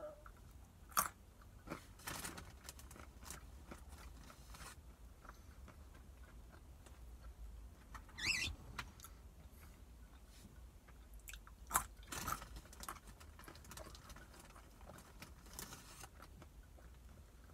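Almonds being crunched and chewed close to the mouth: scattered sharp crunches with softer chewing between them, the loudest about a second in and again about twelve seconds in.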